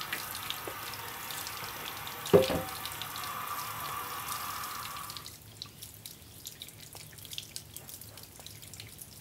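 Liquid running and splashing, with a sharp knock about two seconds in. The flow stops about five seconds in, leaving scattered drips.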